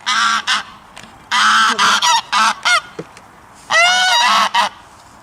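Geese honking: repeated loud honks in three groups with short pauses between, the last group about a second long.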